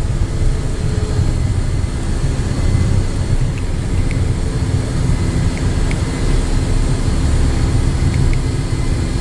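Cessna Citation business jet heard from inside the cabin: a steady, loud engine rumble with a low drone, without letting up.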